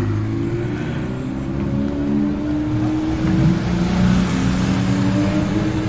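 Supercar engines running at low speed as cars roll slowly past one after another: a Ferrari 488's twin-turbo V8 pulling away, then a Porsche 911's flat-six passing close by. The engine note stays fairly steady, with only small rises in pitch.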